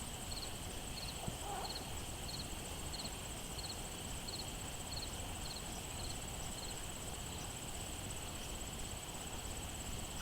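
Crickets chirping in a late-summer garden: short, evenly spaced chirps, about three every two seconds, over a steady high-pitched insect trill. The chirps fade for a few seconds toward the end.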